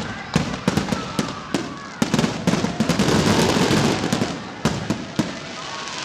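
Fireworks going off: a run of sharp bangs at uneven intervals, thickening into a dense crackle for a couple of seconds in the middle before thinning to scattered bangs again.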